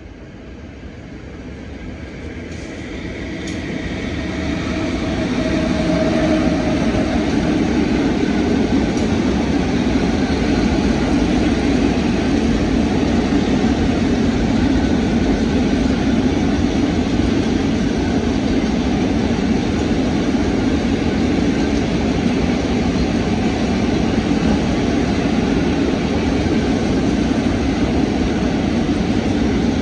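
PKP Cargo freight train of covered hopper wagons passing over the level crossing. The rumble builds over the first five or six seconds as the train arrives, then holds steady as the wagons roll by.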